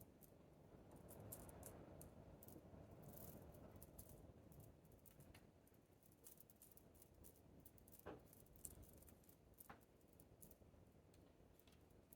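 Quiet hand-work sounds from potting succulents: a soft rustling in the first few seconds and scattered small clicks and taps throughout, two of them more distinct near the end.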